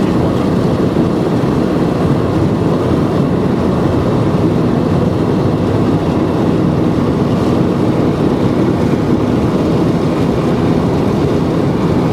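Steady rushing noise of a car driving at highway speed, mostly tyre and wind noise, while it paces a VIA Rail passenger train.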